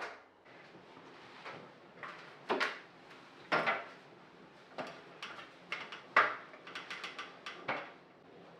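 Irregular knocks and clicks of household objects being handled, like drawers, cupboard doors and dishes, with a few louder knocks among them.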